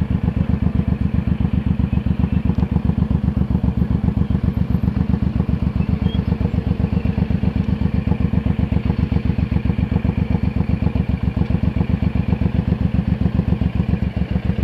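Suzuki C1800R's V-twin engine idling steadily with an even, regular pulse while the bike creeps along at walking pace and pulls up to park.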